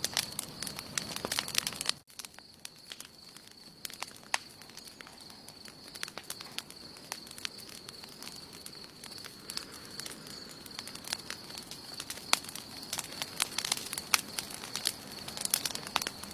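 Wood campfire crackling, with scattered sharp pops and snaps. The crackling is dense at first, drops away abruptly about two seconds in, then carries on sparser and builds up again near the end.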